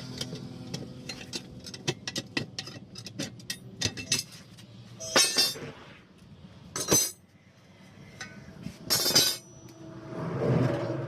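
Hand tools clinking and tapping in quick, irregular strikes, then three short, harsh bursts of noise a couple of seconds apart.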